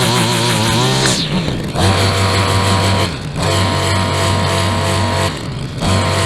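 Small two-stroke engine of a handheld lawn power tool running. Its pitch wavers under load for the first second, then drops as the throttle eases, and it settles to a steady running tone with two brief dips.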